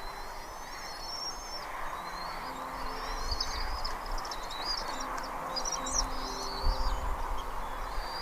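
Birds calling: a run of thin, high-pitched squealing chirps, some held and wavering, with a steady outdoor hiss behind them.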